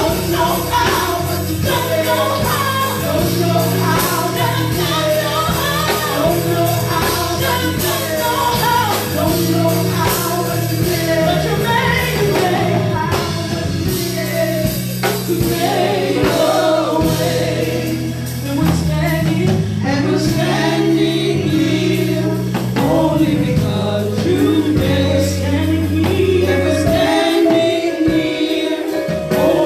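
Gospel choir singing with a live band, a bass line moving under the voices and a steady beat.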